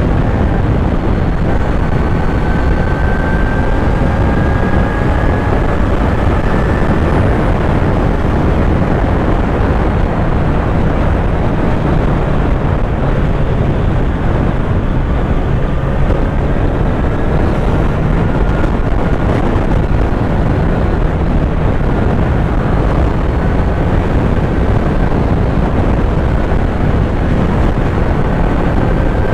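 Kawasaki Z900 inline-four engine running under way, under heavy wind and road rush; its pitch climbs slowly a few times as it pulls through the gears.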